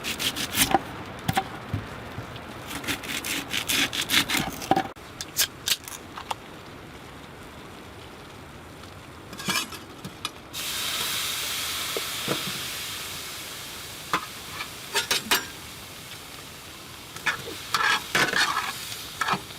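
A knife chopping peppers and onions on a camp chair used as a cutting board, a quick run of sharp cuts. About halfway through, a steady sizzle starts suddenly as the vegetables fry in a pan, with scattered clicks and scrapes of stirring.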